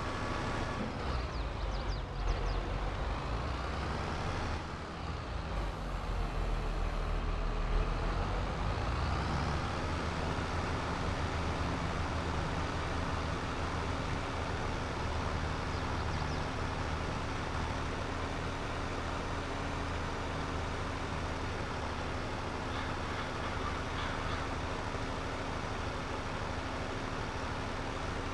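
Tractor engine running. Its pitch rises and falls a few times in the first ten seconds or so, then it runs at a steady speed.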